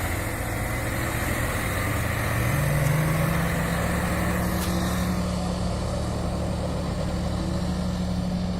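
Heavy vehicle engine running steadily. About two and a half seconds in, its pitch steps up and then holds.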